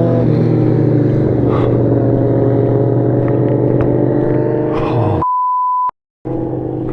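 A vehicle engine idling steadily, cut off about five seconds in by a single steady high beep of under a second, a censor bleep, followed by a brief dropout to silence before the idling engine returns.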